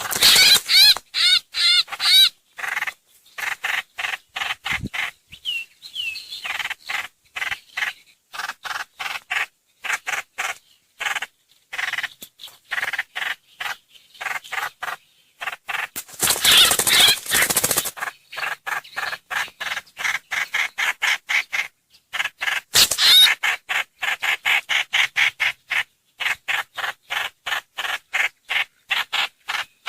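Lure recording of a bird's calls, the bird known in Vietnamese as trao trảo or hoành hoạch: fast series of short, repeated call notes that run on without a break, with louder, harsher phrases near the start, about halfway through and a little later.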